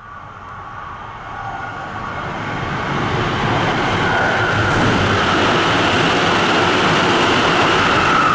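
Tsukuba Express commuter train approaching and passing through the station at high speed without stopping. Its rail noise grows steadily louder for about four seconds, then stays loud as the cars rush past, with a steady high whine over it.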